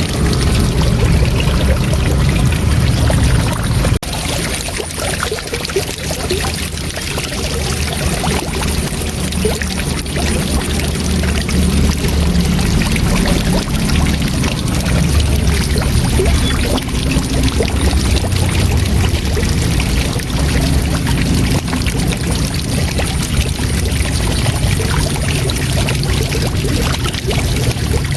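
Waterfall: a steady, full rush of falling water with a deep low rumble, briefly dipping about four seconds in.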